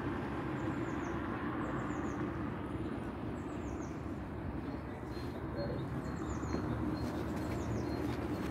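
A small bird calling repeatedly in short, high, falling chirps, in little groups of two or three, over a steady low outdoor rumble.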